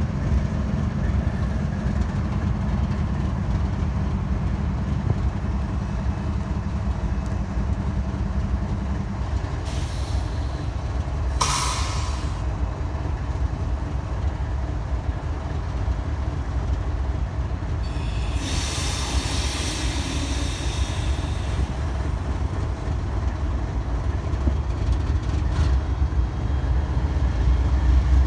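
Freight train in a rail yard: a steady low rumble, with steel wheels squealing on curved track, a short squeal about a third of the way in and a longer one past the middle.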